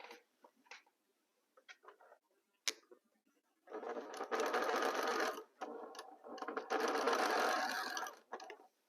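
Sewing machine stitching patchwork pieces together in two short runs of about two seconds each, after a few light clicks from handling the fabric and machine.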